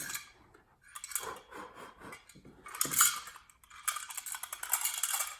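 Electrical floor box being lifted out of its hole in the floor and handled, with several handling knocks, a sharp knock about three seconds in, then a stretch of rattling scrape.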